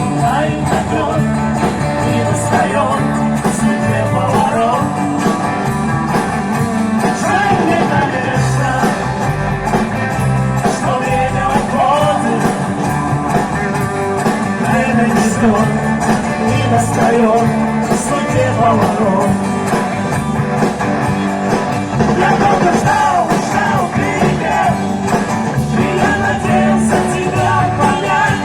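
A vocal-instrumental band playing live music with a steady beat.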